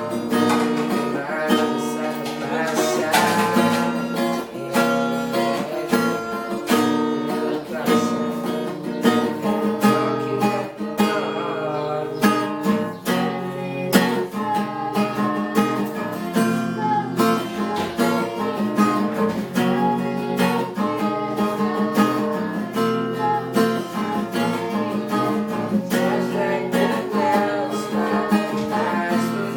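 Acoustic guitar strumming chords in a steady rhythm, playing a pop ballad accompaniment.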